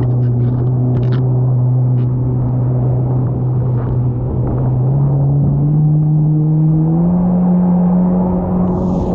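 Jet ski engine running at a steady speed, then revving higher in steps from about five seconds in, its pitch climbing.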